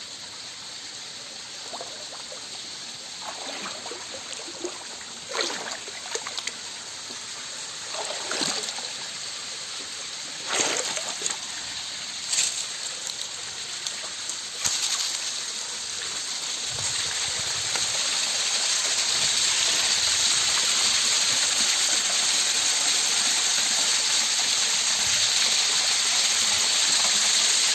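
Mountain stream flowing over rocks, a steady rush of water that grows louder and fuller about two-thirds of the way in. In the first half, about five short splashes stand out above it.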